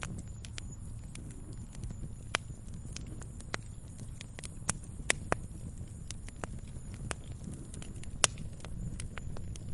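Wood bonfire crackling, with irregular sharp pops over a low steady rumble of flame; the loudest pop comes about eight seconds in.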